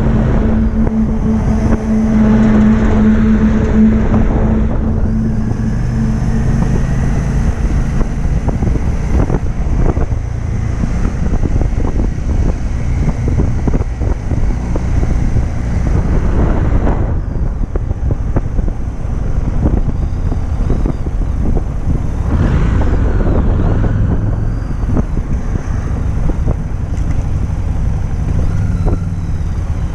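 Harley-Davidson XG750's 749 cc V-twin engine running steadily while riding at road speed, heard from the bike, with wind and road noise mixed in.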